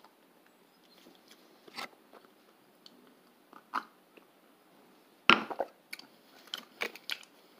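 A person chewing a mouthful of raisin bread with peanut butter: quiet, scattered mouth clicks and small chewing noises. A louder, sudden short sound comes about five seconds in, followed by a few more clicks.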